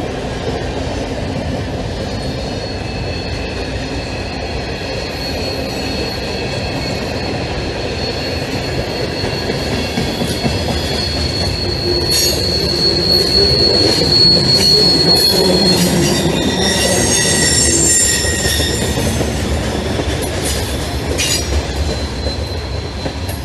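Freight train cars rolling past on steel rails: a steady rumble of wheels on track with a long, high wheel squeal from about two seconds in. Around the middle and later, several more squeals and sharp clicks join in. The sound fades near the end as the last car goes by.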